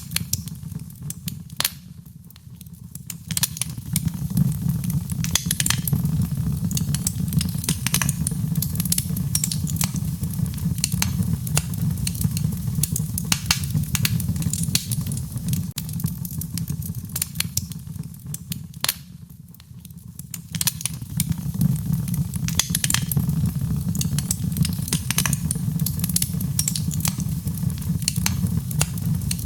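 Wood fire crackling with frequent sharp pops over a steady low rumble of burning flames. The fire sound dips briefly quieter twice, about two seconds in and again about nineteen seconds in.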